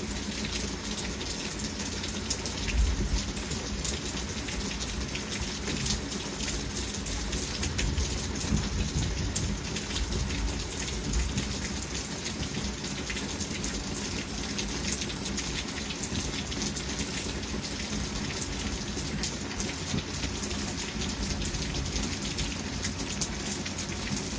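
Steady heavy rain falling in a thunderstorm, a dense even hiss full of individual drop hits on nearby surfaces.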